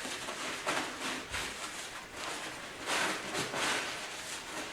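Cloth rag rubbing over a metal transmission plate, wiping it clean in short irregular strokes.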